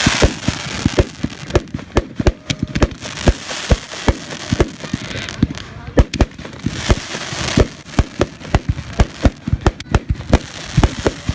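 Fireworks going off: a rapid, irregular string of sharp bangs, several a second, with stretches of crackling hiss between them.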